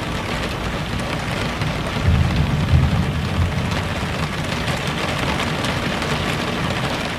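Steady rain, with a low rumble of thunder about two seconds in that eases off over a second or two.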